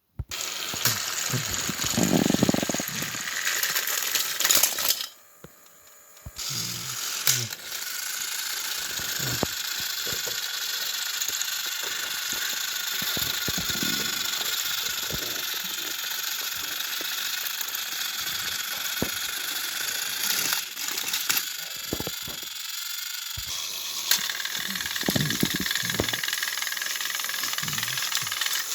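Small battery-powered toy train engines running, their motors whirring and plastic gears rattling, with scattered clicks and knocks. The motor sound cuts out about five seconds in and starts again a second or so later.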